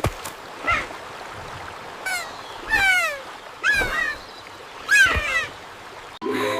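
A series of about five short animal calls, each falling in pitch, over a light background hiss. Music comes in near the end.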